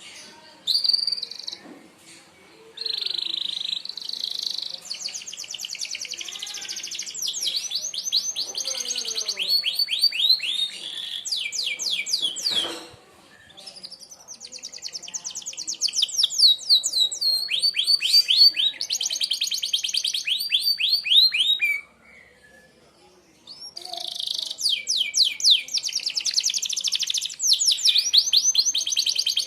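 Domestic canary singing long, fast runs of high, repeated falling notes in the sharp 'tembakan' style, each run rattling on for several seconds. The song breaks off briefly twice, about 12 and 22 seconds in.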